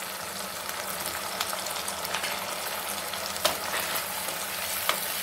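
Diced onions and capsicum sizzling in hot oil with freshly added sauces and vinegar in a pan, stirred with a wooden spatula; a steady hiss with a few sharp clicks of the spatula against the pan.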